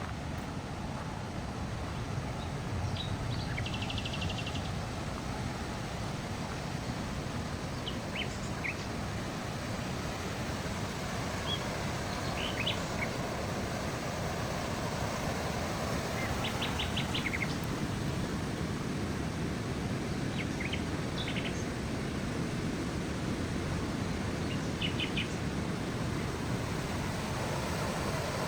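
Small songbirds chirping, with short calls and quick trills scattered throughout, over a steady rushing background noise.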